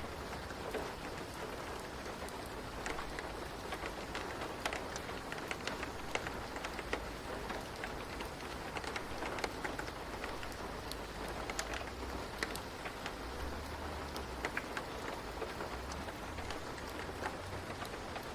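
Steady rain falling on a surface, with many separate drops tapping over a constant hiss and a low rumble underneath.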